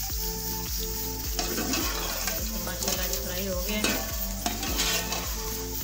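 Partridge meat sizzling as it fries in oil in a metal pressure-cooker pot, with a metal slotted spoon stirring and scraping against the pot.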